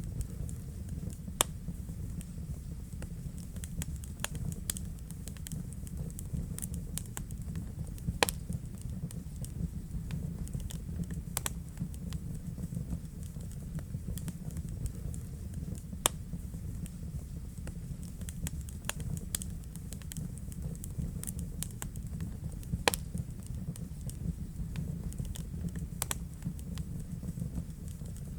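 Fire crackling in a fireplace: a steady low rumble of flames with irregular sharp pops and snaps, a few of them much louder than the rest, several seconds apart.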